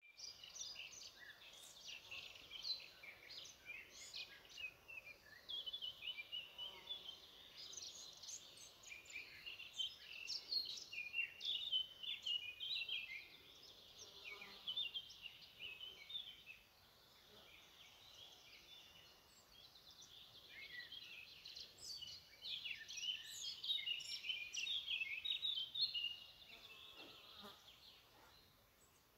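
Outdoor birdsong: several birds chirping and warbling in quick, varied high notes, thinning out for a few seconds in the middle and growing busier again toward the end.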